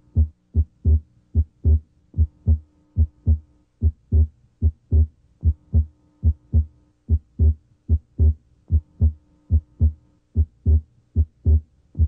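Heart sounds heard through a stethoscope diaphragm pressed on the chest at the left sternal border: steady paired lub-dub beats, a little over one a second. The second heart sound is abnormally widely split, the split coming and going with deep breathing. A faint steady hum runs underneath.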